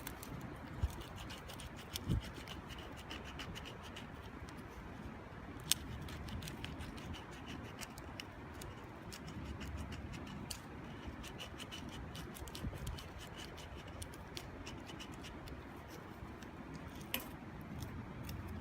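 Wood fire crackling: many small sharp ticks and a few louder pops from the burning wood, over a steady low rushing background.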